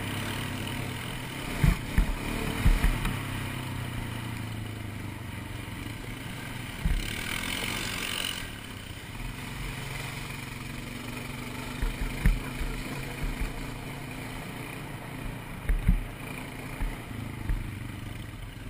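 ATV engine running steadily at low speed on a trail ride, with scattered sharp thumps and a short rush of hiss about seven seconds in.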